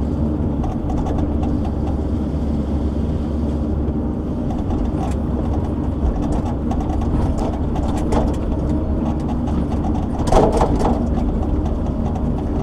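Logging shovel's diesel engine running steadily while it works logs, with a brief louder noise about ten seconds in.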